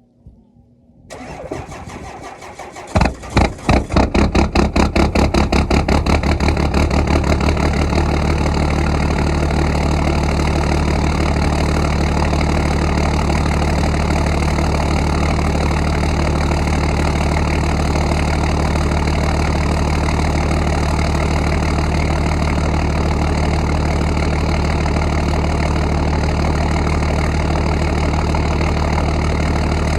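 First-generation Cummins 5.9-litre inline-six turbodiesel cold-starting. It cranks on the starter for about two seconds, catches with loud, heavy, uneven firing, and settles into a steady idle within a few seconds.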